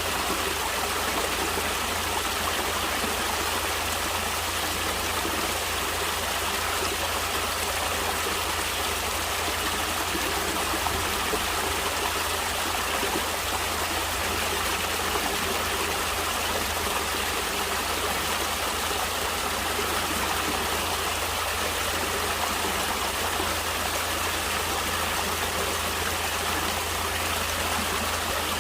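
Natural running water flowing steadily: an even, unbroken rush with no pauses or changes.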